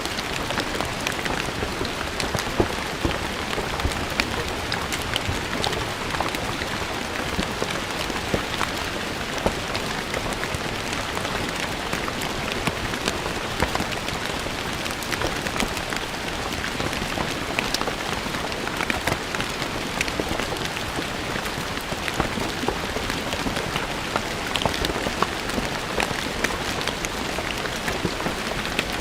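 Steady rain falling on stone paving, a dense patter of many small individual drop impacts over a continuous hiss.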